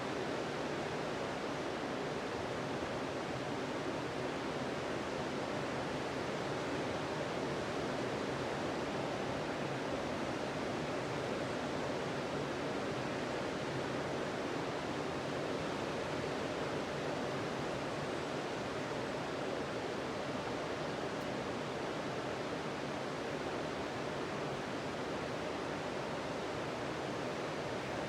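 Steady, unbroken wash of ocean surf on a sandy beach, with no single wave breaks standing out.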